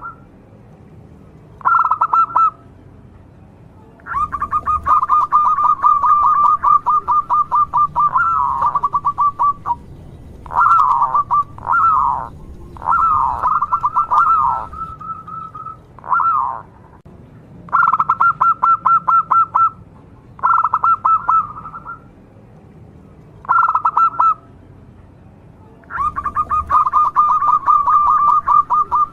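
Zebra dove (perkutut) singing: bouts of rapid, rattling trilled coos, with long runs from about 4 to 10 s and again from about 26 s on, short bursts in between, and a few downward-sliding coos between about 10 and 17 s.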